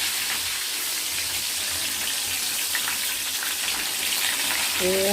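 Chicken pieces deep-frying in hot oil, a steady sizzle, over a flame the cook thinks is too high and nearly burning the chicken. A voice begins right at the end.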